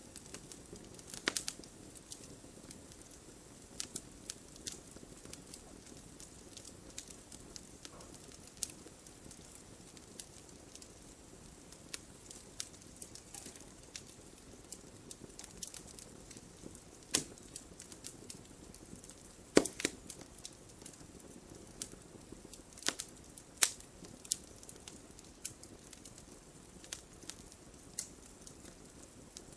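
Wood fire burning in a fireplace, crackling with irregular sharp pops and snaps over a soft steady hiss of the flames. The loudest snap comes about two-thirds of the way through.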